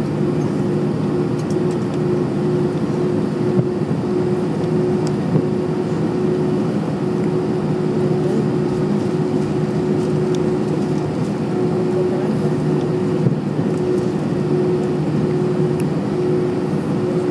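Steady cabin hum of an Airbus A320-200 as heard from a window seat over the wing, its engines running at low power while the airliner rolls on the ground after landing. The drone holds one level throughout, with no rise in engine power.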